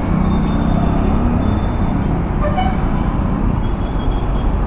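Royal Enfield Classic 350's single-cylinder engine running with a steady low rumble, just after its first start, with a held tone through the first second and a half.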